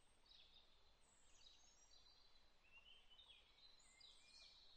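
Near silence, with faint high bird chirps and warbles coming and going, busier in the second half.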